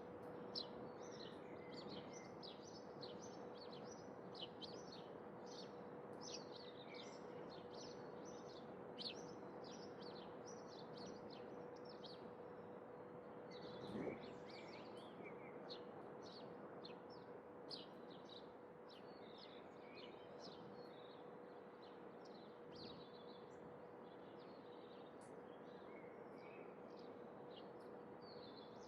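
Birds chirping faintly: many short, high calls scattered throughout, over a steady background hiss with a faint constant hum. One brief, slightly louder sound about halfway through.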